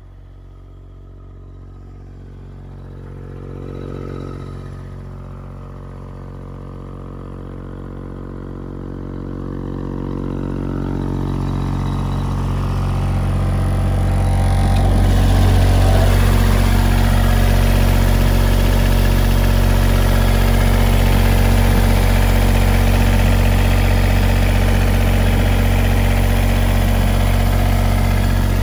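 Diesel engine of an Airman PDS100SC portable air compressor running at a steady speed. It grows louder over the first fifteen seconds, then holds steady.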